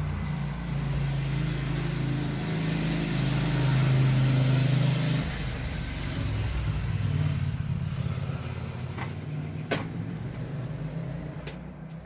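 A motor vehicle's engine running, loudest about four seconds in and easing off after about five. A few sharp clicks come near the end.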